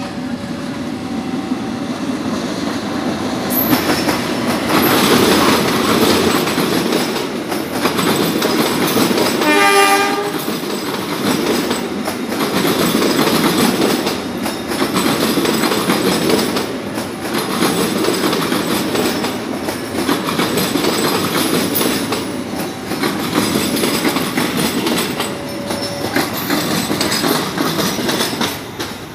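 A diesel-hauled passenger train passing close by: a loud running rumble with wheel clatter that swells and falls as each coach goes past. A short horn blast sounds about ten seconds in.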